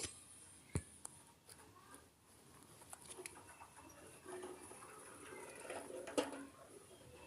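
Faint scuffling and rustling with light scattered taps, and a few sharp clicks: one a little under a second in and one about six seconds in. Under it runs a faint, steady high hiss.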